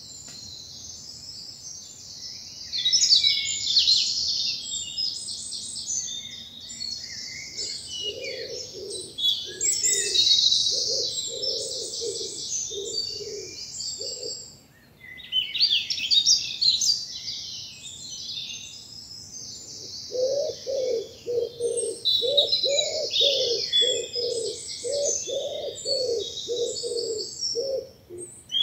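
Woodland songbirds singing a mix of high-pitched songs and chirps throughout. A pigeon's low, evenly repeated cooing joins in twice: once in the middle and again near the end.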